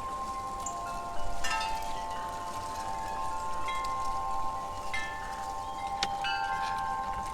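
Wind chimes ringing in the breeze: several tones hang on and overlap, freshly struck a few times, most strongly about a second in.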